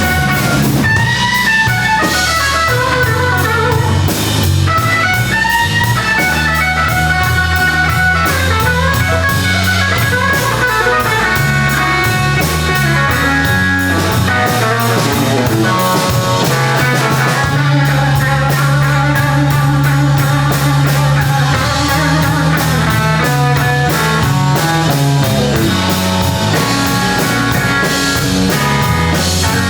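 Blues band playing an instrumental passage of a slow blues: an electric guitar lead line with bent notes over bass and drum kit.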